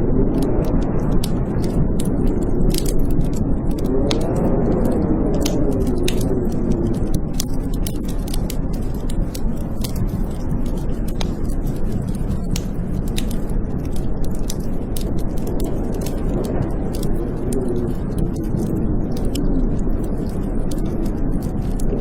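Wood fire crackling in a fireplace, with frequent sharp pops and snaps, over the steady low rush of blizzard wind howling, its moaning pitch rising and falling.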